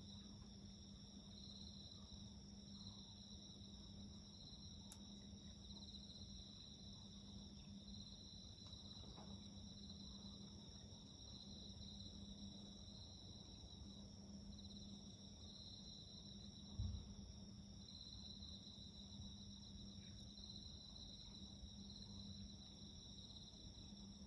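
Faint chorus of night insects chirping: a high trill that swells and fades in regular pulses, about one a second, over a steadier high insect drone. A few faint clicks come from the garden campfire, and a single dull low thump comes about two-thirds of the way through.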